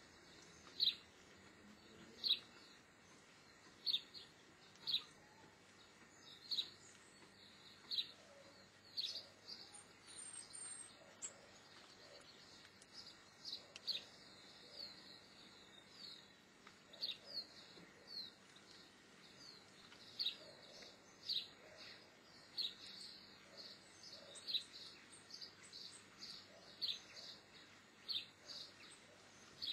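Small bird calling: short, high, slightly falling chirps repeated about once a second, coming quicker in the second half, faint over a quiet background.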